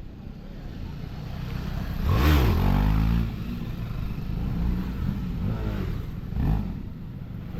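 Motorcycle engine accelerating while riding, its pitch rising through the revs about two seconds in, the loudest part, and again more briefly near the end.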